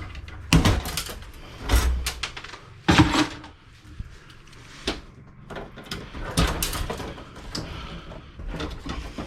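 Hand tools working on a computer board and case as brass standoffs are worked loose: irregular metal clicks, knocks and scraping, with a few louder knocks in the first three seconds.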